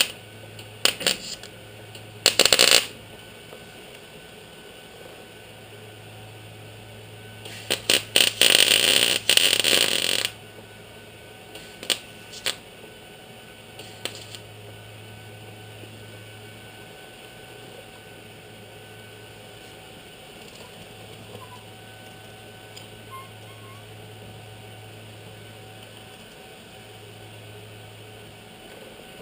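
Short bursts of arc welding on sheet steel: crackling tack welds about 1 s and 2.5 s in, then a longer bead of about three seconds, followed by a few single clicks. A low steady hum runs underneath.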